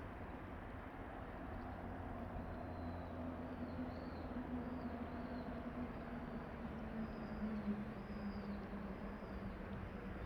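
Low engine hum of a distant vehicle, its pitch sinking slowly, with a small bird giving short high chirps a little over once a second from a couple of seconds in.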